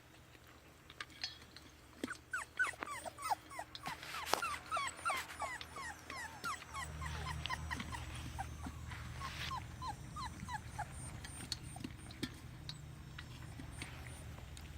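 Litter of 5.5-week-old puppies whining and yipping, with many short high cries that drop in pitch. The cries come thick and fast from about two seconds in and thin out near the end, over a low steady hum that starts about halfway through.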